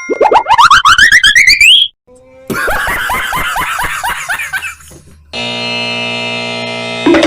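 A string of cartoon sound effects: a fast warbling tone that rises in pitch for about two seconds, then a warbling run that falls in pitch, then a steady buzzer-like tone held for about two seconds, with a ding starting right at the end.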